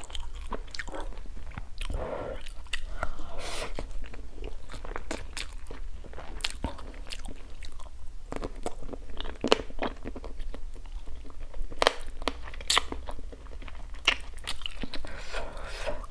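Close-miked chewing and biting of stir-fried frog meat, with many sharp, irregular little crunches and clicks.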